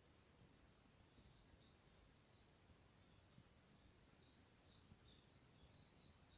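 Near silence with low background noise, and from about a second in a faint bird singing a run of quick, high chirping notes.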